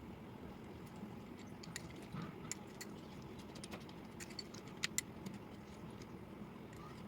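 Slate pencil being chewed: faint, scattered crisp crunches and clicks, with two sharper cracks close together about five seconds in.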